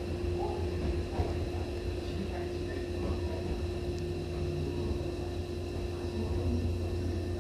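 Hankyu 7000-series commuter train heard from inside the car as it slows into a station, a steady low rumble with a constant hum over it.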